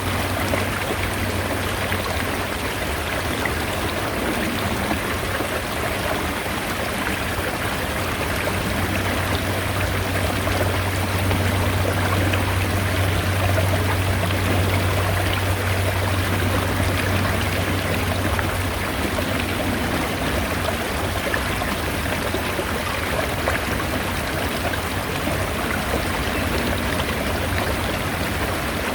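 Mountain stream water running steadily: a continuous rushing and trickling with a low rumble underneath.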